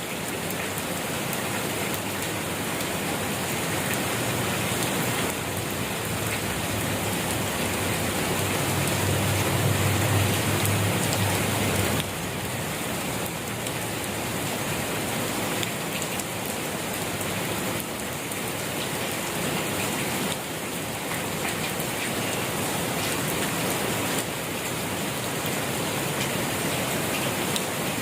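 Steady rain falling and pattering on surfaces, an even hiss with no letup. A low rumble builds under it about eight seconds in and stops abruptly around twelve seconds.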